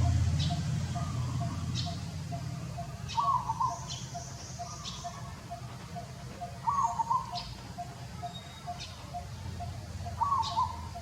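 Birds calling: a short warbling call repeated four times, about every three and a half seconds, with thin high chirps in between over a fast, steady pulsing call.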